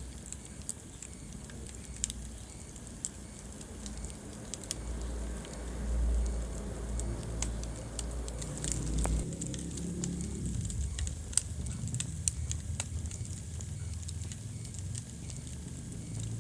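Wood fire burning in a fireplace: a low, steady rumble of flames with scattered sharp crackles and pops, a few louder pops in the second half.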